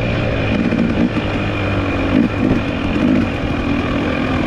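Dirt bike engine being ridden, the revs rising and falling several times as the throttle is worked.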